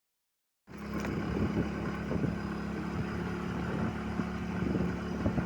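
A vehicle engine running steadily with a low hum. It starts suddenly under a second in.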